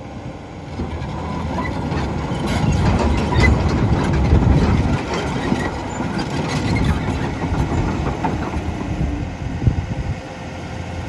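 Komatsu PC210LC-10 excavator's six-cylinder diesel engine working under hydraulic load, rising in level a couple of seconds in and easing off later, with scattered metallic clanks and knocks from the machine moving.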